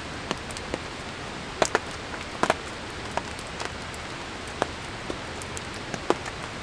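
Steady rain falling, with scattered sharp ticks of drops landing at irregular intervals.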